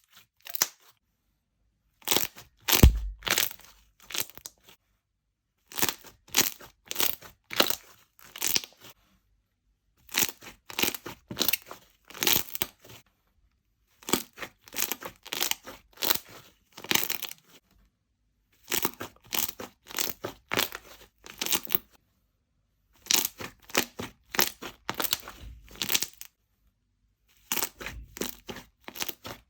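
Slime being squeezed and pressed, crackling and popping in runs of sharp clicks that each last a couple of seconds, with short silent pauses between them.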